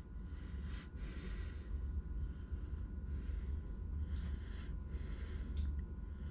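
A person breathing close to the microphone, several soft breaths, over a steady low hum that is the Aquahot 250D diesel heater running outside.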